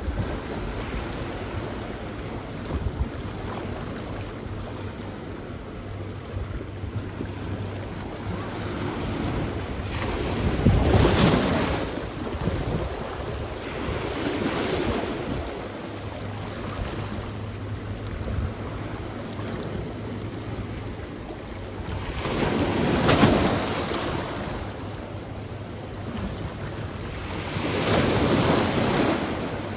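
Sea waves washing onto the shore, swelling louder four times, over a steady rush of wind buffeting the microphone.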